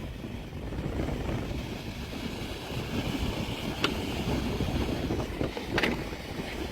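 Yoole high-speed hair dryer running, a steady rush of blown air, with two brief sharp ticks about four and six seconds in.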